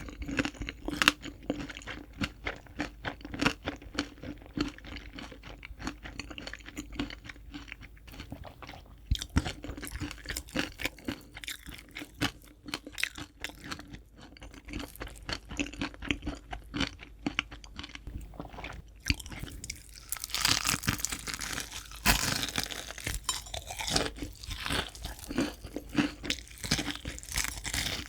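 Close-miked crunching and chewing of crispy fried chicken, a dense run of irregular crackles, growing louder and sharper about two-thirds of the way through.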